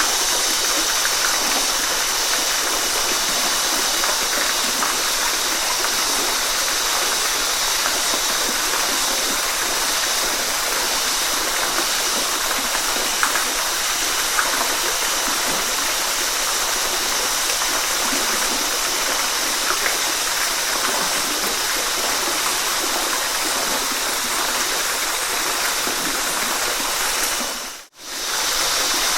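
Waterfall rushing steadily, an even hiss-like splash with little low rumble. Near the end it fades out briefly to near silence and comes straight back.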